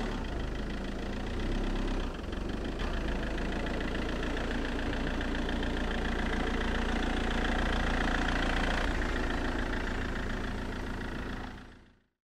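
Car engine idling steadily, with a low hum and a fast even pulse, fading out near the end.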